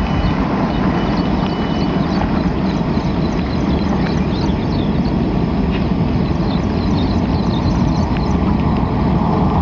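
Passenger train running: a loud, steady rumble with faint, short high chirps scattered through it.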